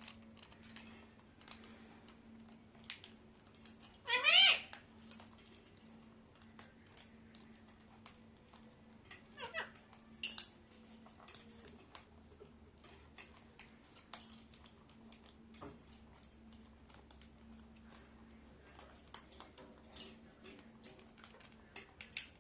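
Pet parakeet calling: one loud rising, meow-like call about four seconds in, then two fainter, shorter calls around ten seconds, with faint scattered clicks and taps between.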